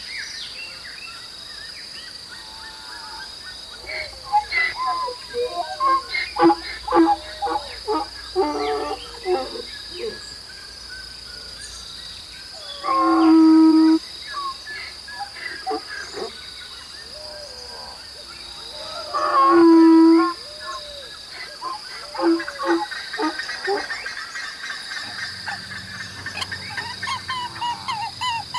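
Outdoor animal sounds: many short bird chirps over a steady high insect-like drone, with two loud, held one-second animal calls, one about halfway through and another some six seconds later.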